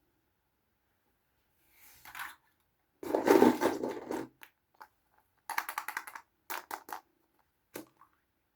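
Small plastic toys and their wrapping handled by hand, crinkling and scraping in uneven bursts. The loudest burst comes about three seconds in, followed by a run of quick crackles and a single click near the end.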